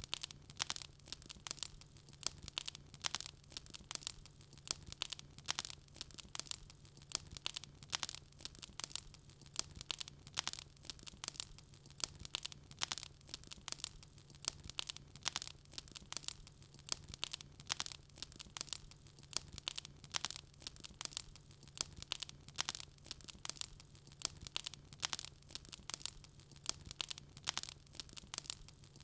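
Wood fire crackling: a dense, steady run of sharp little pops and snaps, with a faint steady low hum beneath.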